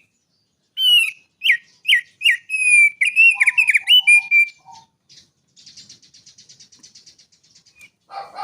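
Small songbird singing a loud phrase of quick down-slurred whistles, with a few lower notes at the end. After about five seconds it gives a fainter, fast rattling trill.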